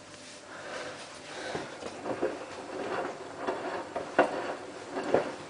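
Hotpoint Ultima WT960 front-loading washing machine early in its main wash, the drum turning a load of wet shirts in water filled up to the door, with sloshing and irregular knocks.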